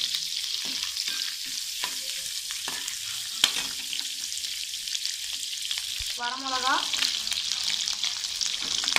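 Whole spices, cinnamon and cloves among them, sizzling in melted butter in a nonstick kadai: a steady frying hiss with light clicks of a steel slotted spatula stirring against the pan, one sharper click about three and a half seconds in.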